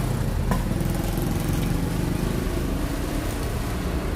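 Steady low engine rumble with a faint click about half a second in.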